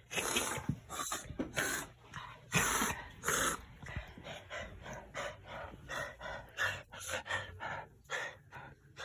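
A dog coughing and wheezing: several loud coughs in the first few seconds, then a run of quicker, shorter wheezing breaths about three a second.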